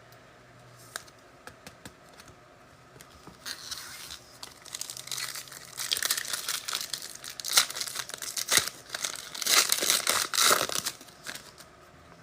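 Foil trading-card pack being torn open and its wrapper crinkled by hand, irregular crackling that starts a few seconds in and is loudest in the second half before dying away.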